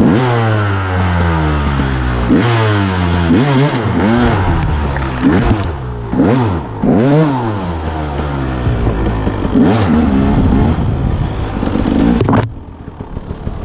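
Dirt bike engine revved again and again, its pitch rising and falling with each throttle burst, while the bike is worked out of a hard spot. Near the end the revving stops abruptly and the engine drops to a quieter running sound.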